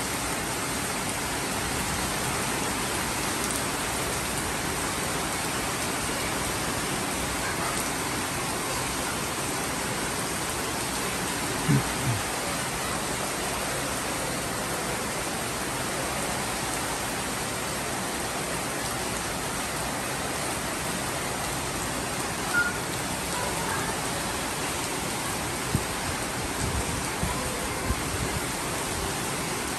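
Heavy downpour: a steady, dense hiss of rain falling. A few brief low thumps stand out.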